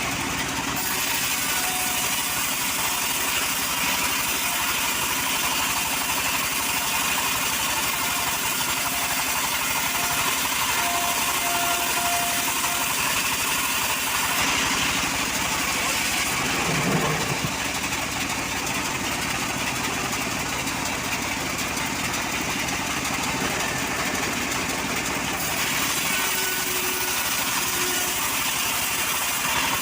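Petrol-engined saw running steadily and continuously.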